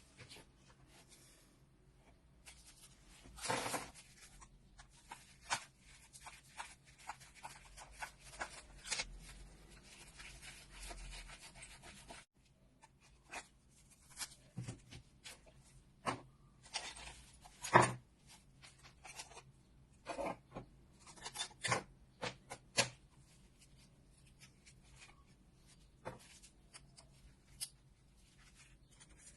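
Hand work on a wooden piece: irregular rubbing and scraping strokes with scattered light taps and knocks, the sharpest knock about eighteen seconds in.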